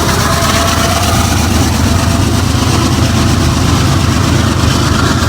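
Canadian Pacific diesel freight locomotives running by with their engines working: a steady low drone under a constant hiss.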